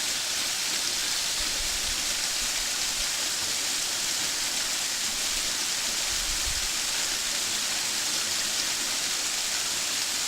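Steady rushing hiss of a waterfall with little water falling, running low in the dry season.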